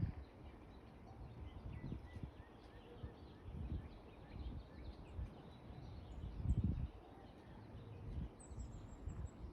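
Outdoor nature ambience: small birds chirping faintly and repeatedly, over irregular low rumbling gusts of wind on the microphone, the strongest a little past the middle.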